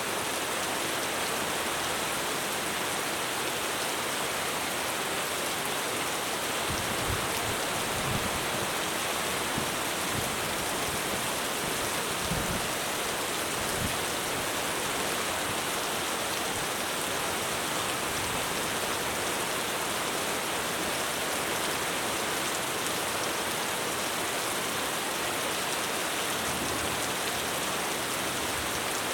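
Heavy rain drumming steadily on a roof, with a few brief dull knocks in the middle.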